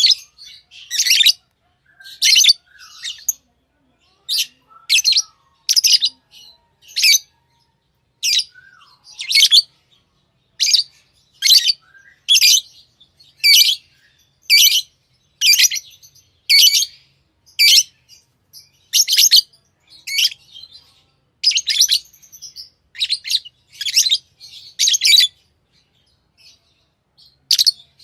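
Pet lovebirds chirping: a steady series of short, shrill calls about one a second, with a brief pause near the end.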